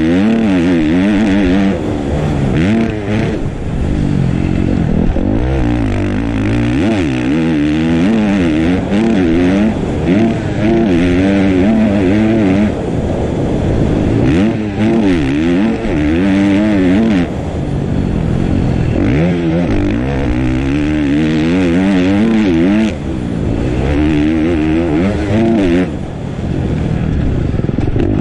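Dirt bike engine riding a motocross track, revving up and falling off again and again as the rider accelerates and backs off.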